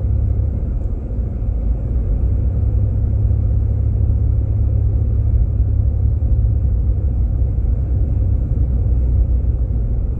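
Steady low rumble of a Jeep Grand Cherokee driving, heard from inside the cabin: engine and tyre noise on a snowy road.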